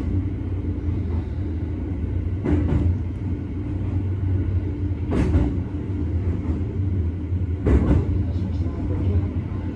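JR West 271 series electric train running with a steady low rumble, and a short clack repeating about every two and a half seconds.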